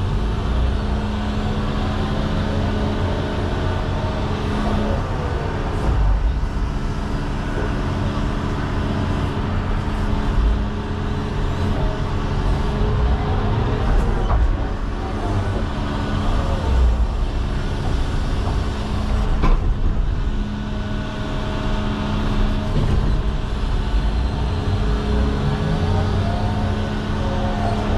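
John Deere 210 excavator's diesel engine running steadily under load, with a tone that rises and falls in a repeating cycle about every twelve seconds as the machine works through its dig-and-load passes. A couple of sharp knocks stand out, one about halfway through and another a few seconds later.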